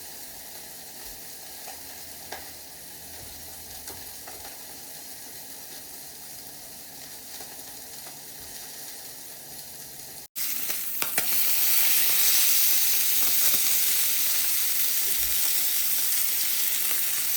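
Seasoned meat sizzling as it fries in a pan, with a few small pops and crackles. About ten seconds in, after a sudden break, the sizzling is much louder.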